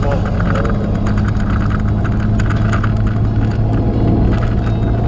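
Steady engine and road noise inside a moving truck's cab, with a constant low hum.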